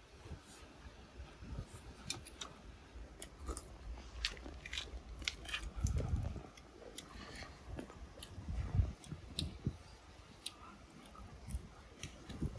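A person chewing and biting food, close to the microphone, most likely grilled oyster meat: many small wet clicks, with a couple of louder soft mouth sounds about six and nine seconds in.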